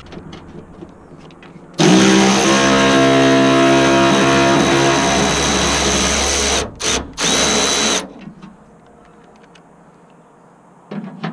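Power drill spinning a bolt out, with a steady motor whine for about five seconds after a quick spin-up, then stopping, two short blips of the trigger and one more brief run.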